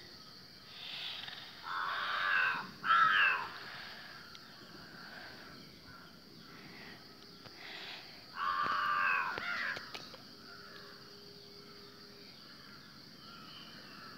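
A bird's harsh calls: two in quick succession about two seconds in, and a longer one about eight seconds in.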